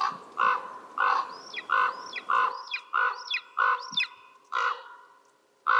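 Crow giving a rapid series of about nine harsh alarm caws, evenly spaced at first and slowing toward the end: worried corvids reacting to a threat near the eagle's kill.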